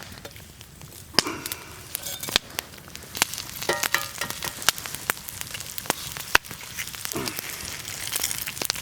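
Eggs and ham frying in a pan set on a campfire: a steady sizzle with many sharp pops and crackles. There are a few brief scrapes around the middle.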